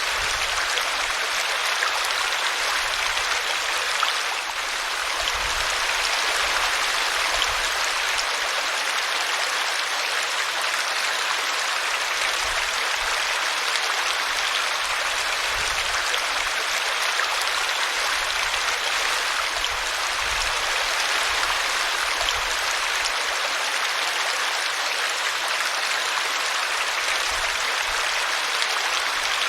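Small brook running over a tree root: a steady, even rush of splashing water.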